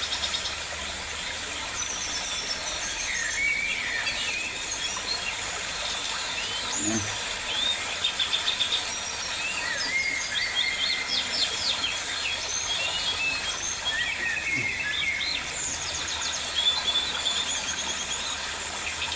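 Several birds chirping and calling together: short whistles, rising and falling notes and fast rattling trills, scattered throughout over a steady background hiss.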